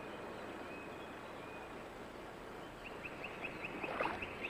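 Faint outdoor ambience with a small bird calling: a few thin, level whistles, then about three seconds in a rapid run of short rising notes, about five a second.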